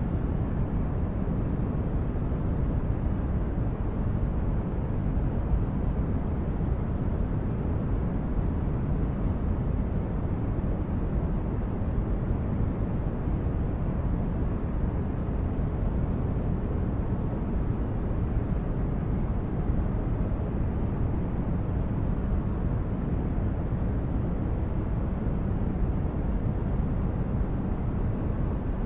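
Sci-fi spaceship ambience: a steady, deep brown-noise hum, mostly low and unchanging.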